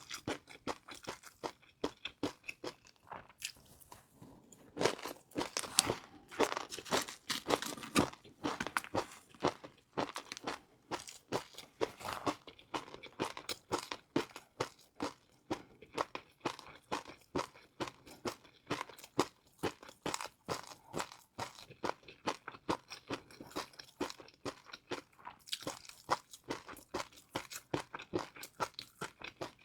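Close-up eating sounds: rapid crunching and chewing of crispy fried noodles, many sharp crunches a second, densest and loudest a few seconds in.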